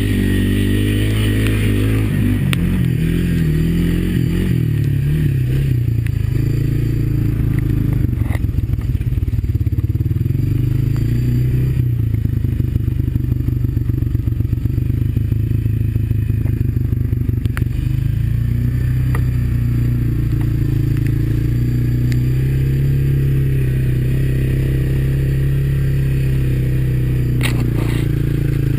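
Single-cylinder Honda ATV engine running at low, fairly steady revs, easing off in the first few seconds. A few knocks and clatter come through, around a third and two-thirds of the way in and again near the end.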